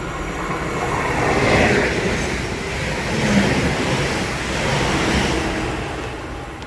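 Train passing through the station at speed without stopping: a broad rush of wheel and air noise that swells, stays loud for several seconds and then fades as it goes by.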